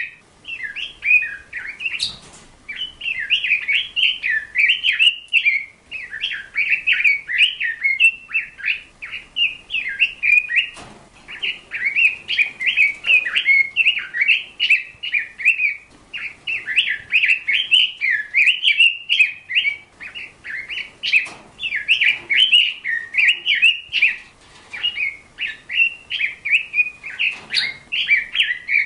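A bird singing: a long, busy run of quick chirps and warbles, with only brief pauses, and a few soft knocks now and then.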